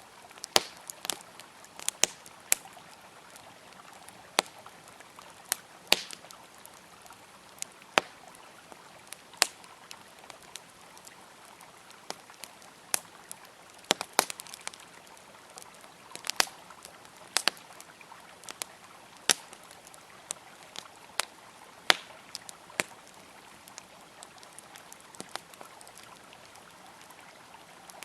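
Wood campfire crackling, with irregular sharp pops and snaps over a faint steady rush of flowing river water.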